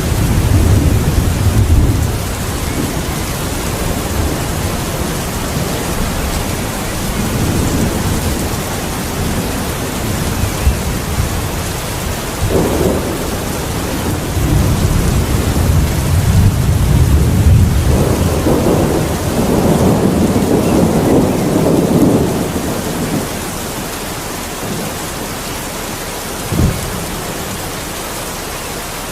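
Steady rain falling in a thunderstorm, with rolling thunder rumbling again and again; the rumbles ease off about three-quarters of the way through, leaving the rain, and a single short thump comes near the end.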